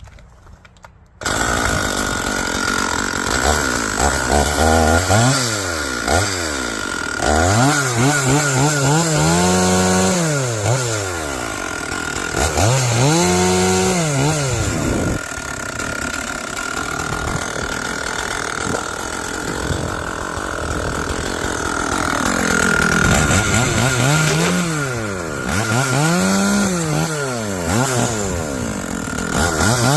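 Stihl MS461 two-stroke chainsaw cutting wood. It comes in abruptly about a second in, then the engine revs up and sags in pitch over and over as the chain bites into the wood and is eased off, with a steady high whine above the engine note.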